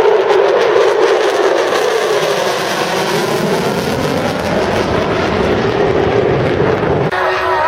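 Fighter jet flying past: a loud, rushing jet roar whose tone sweeps slowly as it goes by. It cuts off abruptly about seven seconds in, where music begins.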